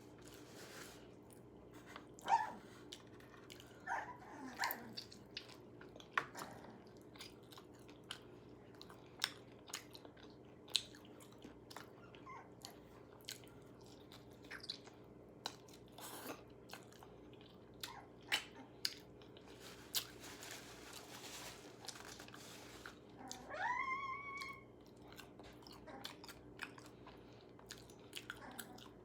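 Close-up crunching and chewing of crispy KFC fried chicken, with many small crackles and bites throughout. A dog whines once about 24 seconds in, with a rising, then held, pitch, and gives a few shorter whimpers early on.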